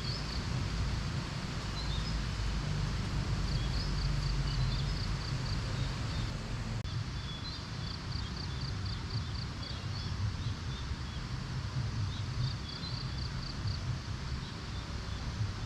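Outdoor ambience: a steady low rumble like wind, with short runs of rapid, high-pitched chirps repeating every few seconds.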